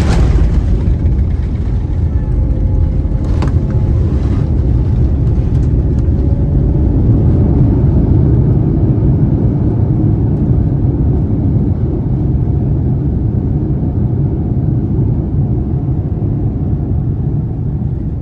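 ANA Boeing 787 touching down, heard from inside the cabin: a sudden hard jolt at the start, then a loud, steady rumble of the roll-out along the runway, with a couple of short clunks a few seconds in, the rumble swelling midway and easing off near the end. A hard touchdown, described as a 'zugoon'.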